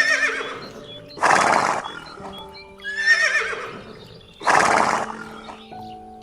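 A horse whinnying twice, each wavering call followed a second or so later by a loud rough burst, over background music with held notes.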